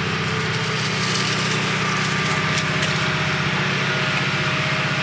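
An engine idling steadily, with light clicks and taps over it.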